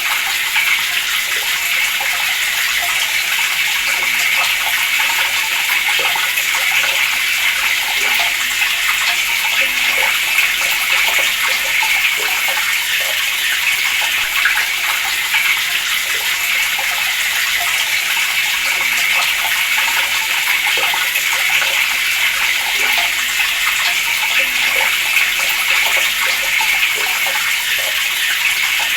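Water running steadily from a tap, an even flowing-water sound that does not change.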